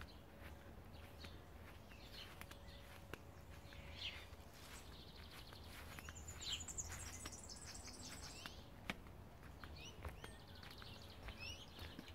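Faint birdsong: scattered short high chirps, with a longer high twittering run from about five to eight seconds in and another shorter one near the end.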